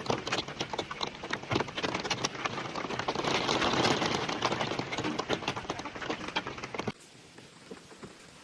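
Water pattering and splashing hard close to the microphone, with many sharp crackling drops. It cuts off suddenly about seven seconds in, leaving a faint steady rain hiss.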